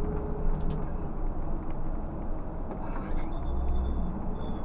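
Scania K124 coach's diesel engine running at low road speed, a steady low drone heard from inside the cabin. A few faint high chirps come in about three seconds in.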